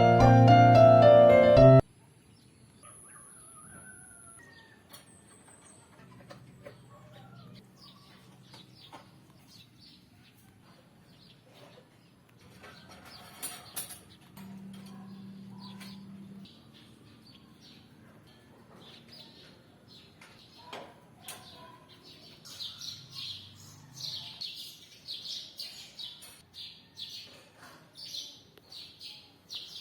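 Piano music that cuts off abruptly about two seconds in. Then comes a quiet background with small birds chirping, the chirps turning busier and louder, several a second, in the last third.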